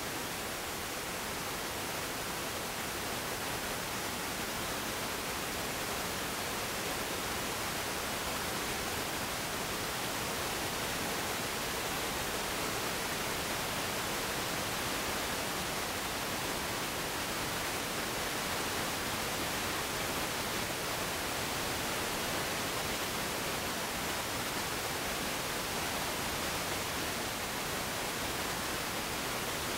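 Steady hiss of static noise, even and unchanging, with no engine or voice heard in it.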